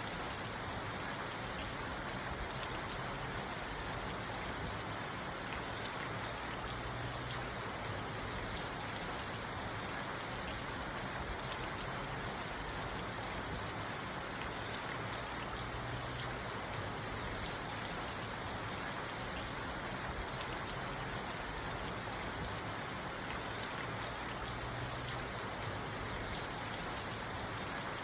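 Steady rain falling on a car's roof and windows, heard from inside the car as an even, dense patter with no thunder.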